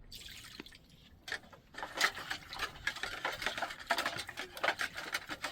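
Dishes and utensils being handled: a rapid, irregular run of small knocks and clinks that starts about a second in.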